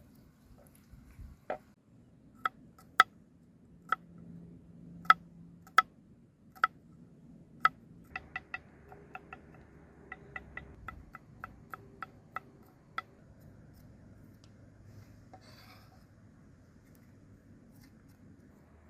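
A kitchen utensil tapping against a dish: sharp taps with a short ring, about one a second at first, then a quicker run of about three a second for several seconds before they stop.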